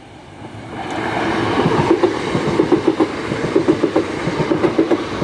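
Class 375 Electrostar electric multiple unit approaching and passing close by, its sound swelling in over the first second. Its wheels then clatter in a rapid, regular run of knocks as the eight coaches go past.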